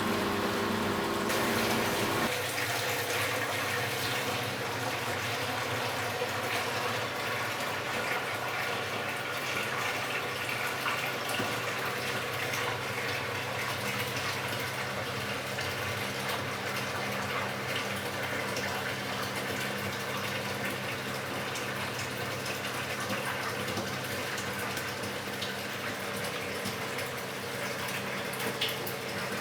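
Philco Bendix W84RX washing machine taking in water: water running into the drum through the inlet. About two seconds in, a steady motor or pump tone cuts off, and the water noise carries on at an even level, with a faint hum under it.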